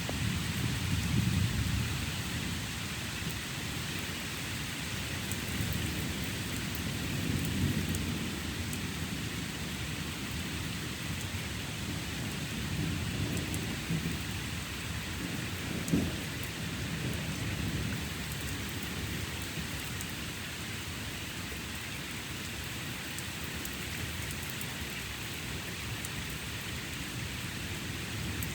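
Steady rain with rolling thunder: low rumbles swell about a second in, again a few seconds later and around the middle. A single brief sharp thump a little past halfway is the loudest sound.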